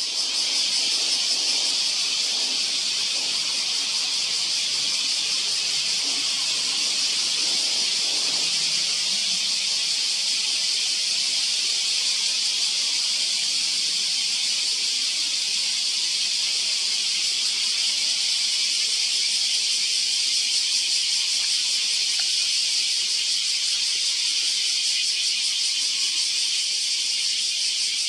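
A dense, steady, high-pitched chorus of cicadas, unbroken throughout.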